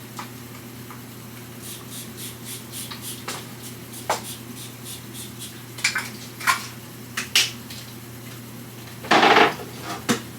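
Light clicks and clinks of small hard objects being handled: a quick run of ticks early on, sharper single clicks in the middle, and one louder scraping clatter about nine seconds in. A steady low hum runs underneath.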